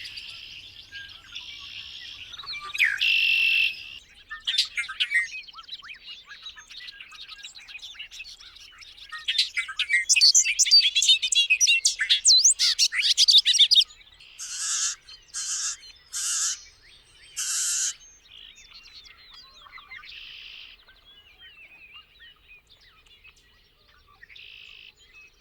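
Songbirds singing and calling. A loud, rapid twittering run comes about nine to fourteen seconds in, followed by four short, wide calls, with scattered chirps and short phrases between.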